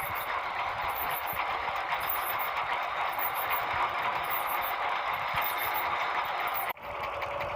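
Diesel engine running steadily under load, driving a tubewell water pump. The sound cuts out for an instant near the end and then carries on.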